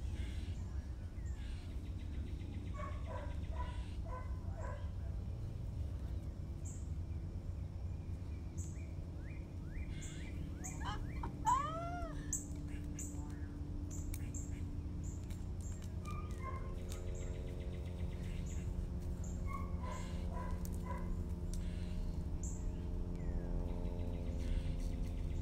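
Birds chirping in short scattered calls over a steady low rumble, with one louder arching call about twelve seconds in.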